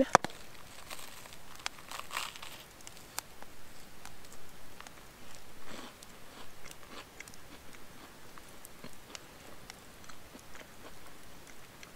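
A person biting into and chewing a pie-iron toasted sandwich of bread, peanut butter and pickles, with quiet, irregular crunching of the well-toasted bread.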